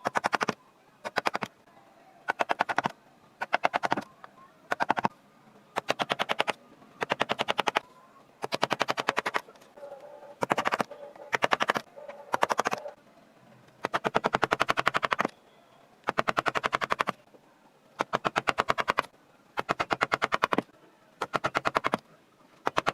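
Reciprocating power carving chisel tapping into wood in rapid bursts of sharp strikes, each burst lasting up to about a second and a half, stopping and starting about a dozen times.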